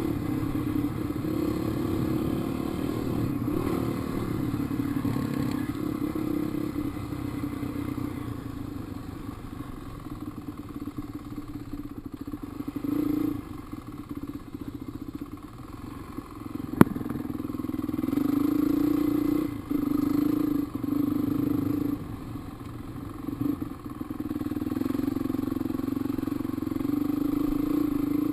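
Dirt bike engine running along a trail, its note dropping off and picking back up several times as the throttle is eased and opened. A single sharp click about seventeen seconds in.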